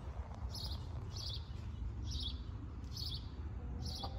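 A small songbird chirping five short, high notes, about one a second, over a low steady rumble.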